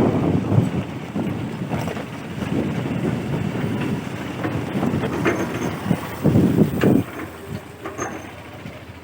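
A vehicle running, heard through wind buffeting the microphone as it moves, with a louder stretch about six seconds in before it eases off after about seven seconds.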